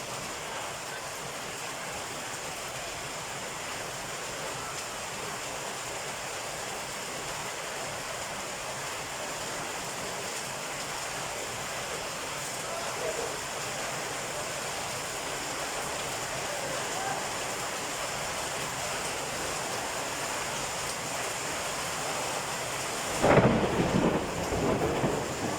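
Heavy rain falling steadily in a thunderstorm. Near the end a sudden loud clap of thunder breaks in and rumbles on.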